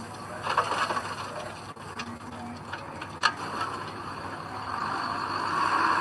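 Earthmoving machinery working: a steady mechanical rattle and clatter with engine noise, one sharp clank about three seconds in, and the noise swelling near the end.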